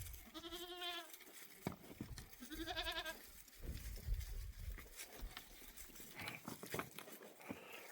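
A goat bleating twice, two wavering calls about two seconds apart, followed by fainter bleats and a few light knocks.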